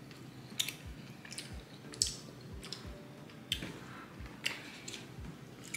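Close-up eating sounds: soft, irregular wet smacks and clicks of someone chewing fufu with egusi soup.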